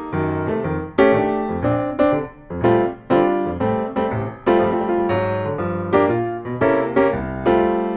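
Background piano music: a run of struck notes and chords, each fading before the next.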